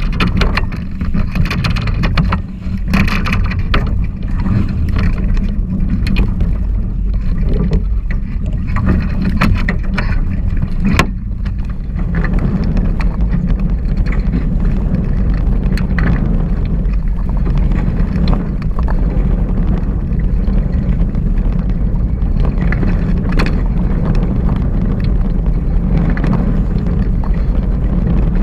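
Hobie 16 catamaran under sail: heavy wind buffeting on the microphone over water rushing past the hulls, with short sharp knocks and splashes in the first dozen seconds and a sharp click about eleven seconds in.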